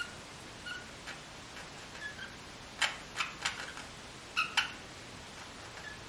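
Sick small pet giving short, high squeaks, with several sharp clicks in between as it gags up mucus.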